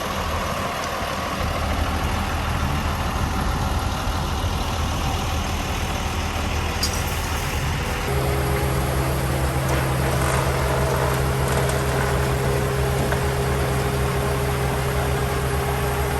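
Heavy diesel truck engine running steadily at idle, its note stepping up to a higher, steady engine speed about eight seconds in.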